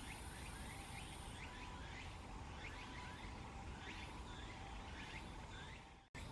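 Faint outdoor ambience: a steady background of insect-like trilling with many short, repeated high chirps over it. The sound drops out abruptly about six seconds in.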